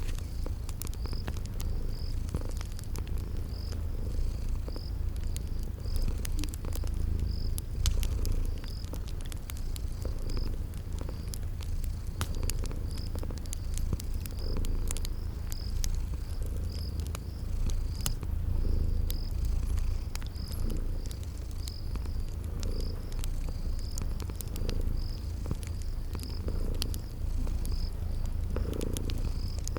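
Cat purring steadily in slow breath cycles, over crickets chirping at an even pace and the sparse clicks of a crackling fire.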